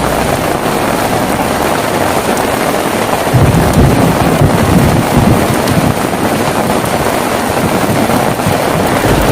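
Heavy rain falling steadily, with a low rumble of thunder rising about three seconds in and dying away over the next few seconds.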